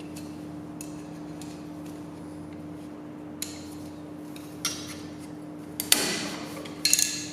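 A few separate light metallic clinks and taps, as of tools and small metal parts being handled, over a steady low hum. The loudest clinks come around six and seven seconds in.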